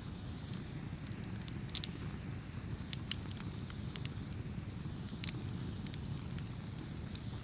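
Campfire burning: a steady low rumble of flames with irregular sharp crackles and pops from the burning wood, a few of them in quick clusters.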